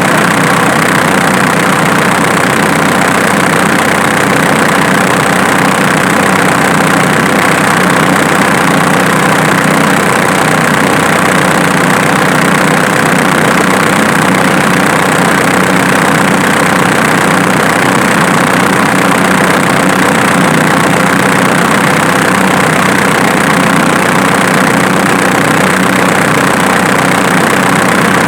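Diesel engine idling steadily, with a snapping noise in it that is traced to the alternator rather than the injection pump.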